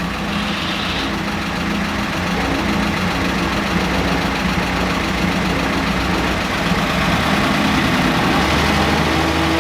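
Old Willys Jeep's four-cylinder flathead engine idling steadily just after being started.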